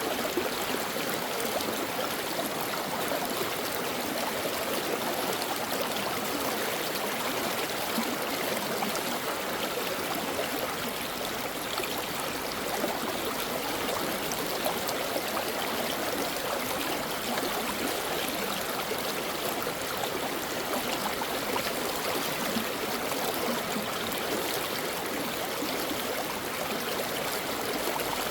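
Stream water running and babbling over rocks, a steady rushing flow with fine splashing and gurgling.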